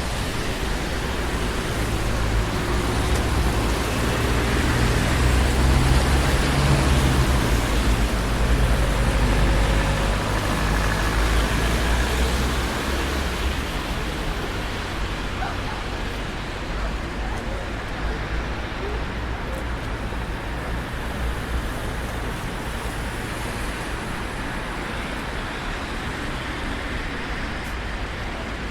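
Heavy road traffic on a busy city street: a steady rush of passing vehicles with a deep engine rumble that swells about a third of the way in, as a heavier vehicle goes by, then eases back to an even hum of traffic.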